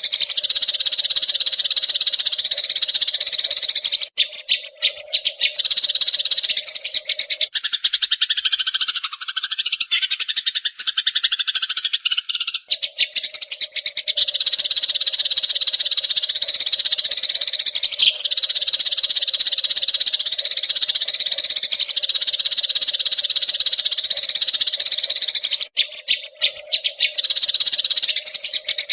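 Eurasian tree sparrows chattering in a fast, unbroken stream of high chirps. From about eight to twelve seconds in, the chatter turns lower and rougher, then the high chirping resumes. It breaks off briefly a few times.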